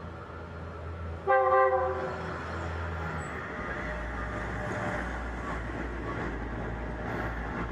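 Train horn sounding one short blast about a second in, over the steady rumble of a train running on the tracks.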